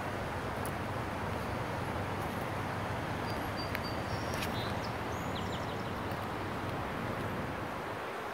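Steady outdoor background noise with a few faint, short, high bird chirps near the middle.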